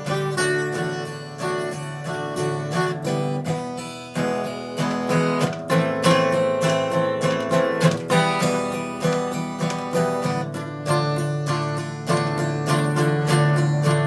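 Acoustic guitar strummed in an instrumental break: steady chords with an even strumming rhythm.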